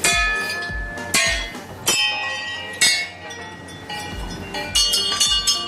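Metal bells struck about once a second, each strike ringing on, over background music with a steady low beat.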